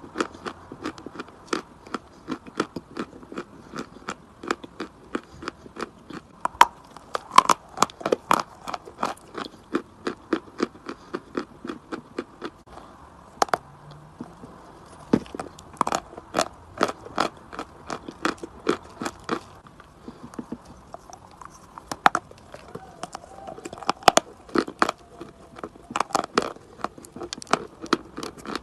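Chalk being bitten and chewed close to the microphone: a dense run of sharp, irregular crunches, about two to three a second.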